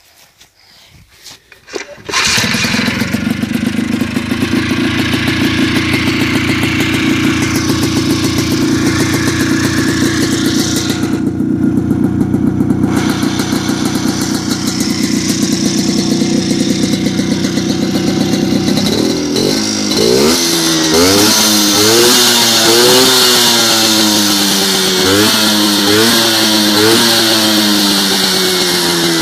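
Hirth 194 R engine on an Agria 1700 walking tractor catching about two seconds in and then running at a steady speed. From about two-thirds of the way through it is revved up and down again and again.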